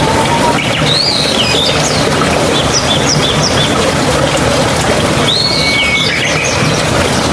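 Steady, loud running water, with a songbird calling over it in two bouts of short chirps and whistles: one from about half a second to three and a half seconds in, another around five to six seconds in.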